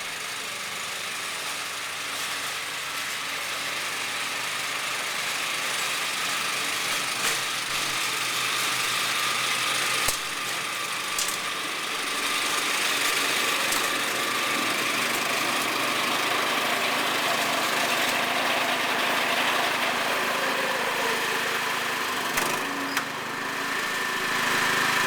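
John Deere lawn tractor's small engine running steadily with its snowblower attachment, with a few sharp clicks partway through and near the end.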